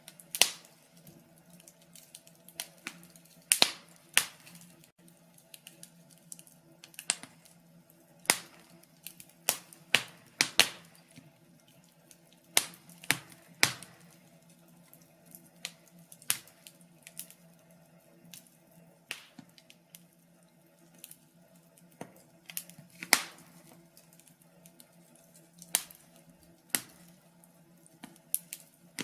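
Wood fire in a fireplace crackling, with irregular sharp pops and snaps, a few of them much louder than the rest. A faint steady hum runs underneath.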